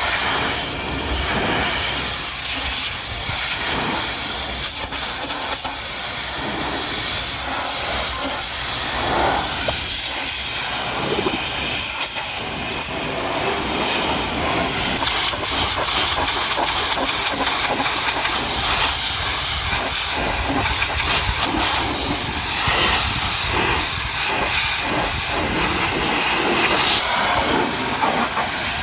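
High-pressure washer jet spraying water against a truck: a steady hiss of spray that swells and eases a little as the jet moves.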